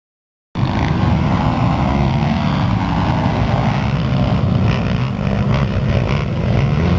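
Pit bike engines running hard on a race track, a loud buzzing that cuts in suddenly about half a second in.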